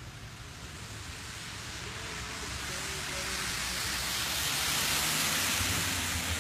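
Rain falling steadily on wet pavement during a thunderstorm, a hissing wash that swells to its loudest about five seconds in and then eases slightly.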